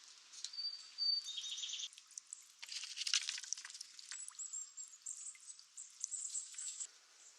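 High-pitched animal calls: a thin whistled note and a fast trill in the first two seconds, a dense rattling chatter around three seconds in, then quick repeated high chirps until near the end.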